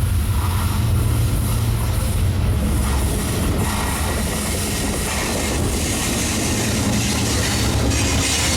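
Diesel-hauled freight train passing: a steady low drone from the locomotive engines, giving way in the second half to the rolling noise of the freight cars on the rails.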